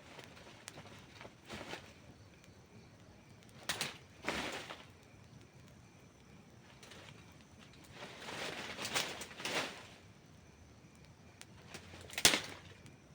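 Wood campfire crackling: scattered sharp pops and snaps, a busier run of crackling about two thirds of the way through, and one loud pop near the end.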